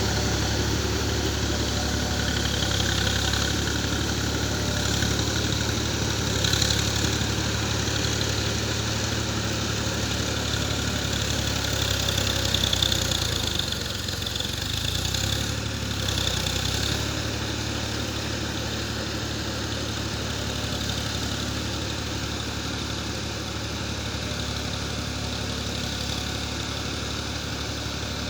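Swaraj 735 FE tractor's three-cylinder diesel engine running steadily at low revs, with some uneven clatter over the first half that settles into an even, slightly quieter run about two-thirds of the way through.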